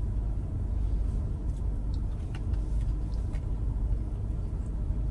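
Steady low rumble of a car's idling engine heard from inside the cabin, with a few faint soft clicks of chewing.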